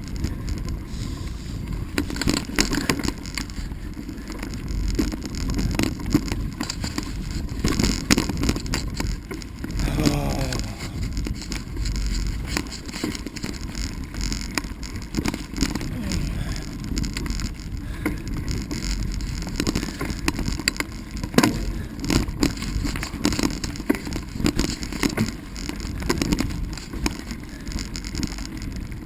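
Bicycle rolling fast over a rough dirt trail, its tyres rumbling with frequent clicks and rattles over ruts and rocks. A brief wavering whine comes about ten seconds in.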